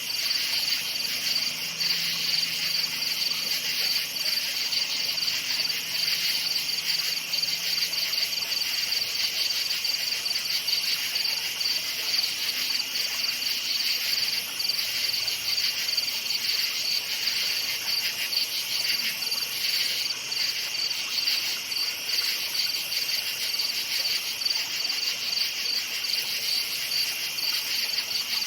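Crickets chirping continuously, a dense chorus of fast, even pulses high in pitch.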